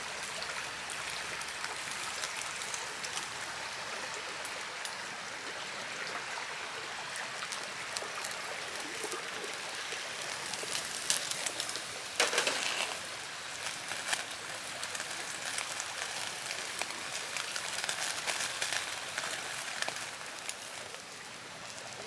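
Meat sizzling on a wire grill net over a wood campfire, a steady hiss with scattered crackles and a few louder pops around the middle.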